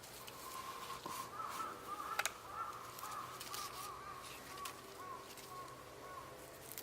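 A bird calling: a held whistled note, then a long run of short, rising-and-falling warbled notes. A few sharp crackles sound alongside.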